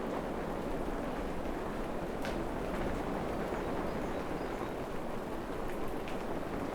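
Steady rain falling, a dense even hiss, with a few sharper single drop ticks about two seconds in and again near six seconds.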